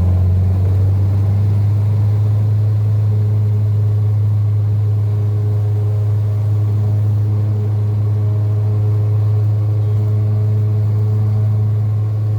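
Small propeller airplane's engine droning steadily at constant power.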